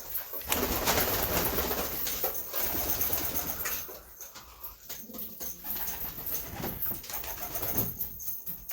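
Domestic pigeons cooing, with rustling and wing flaps, heaviest in the first few seconds.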